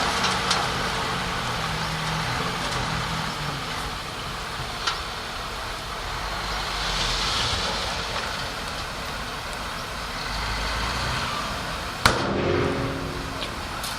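A heavy earthmoving machine's diesel engine running steadily, with a few light clicks and a sharp knock about twelve seconds in that rings briefly.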